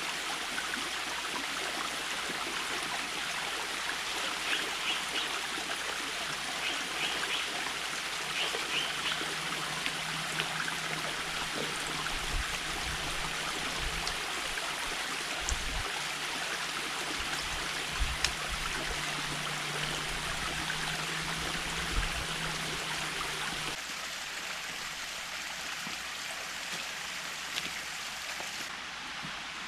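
Creek water running steadily over rocks, with a few short high chirps about five to nine seconds in and some low bumps in the middle.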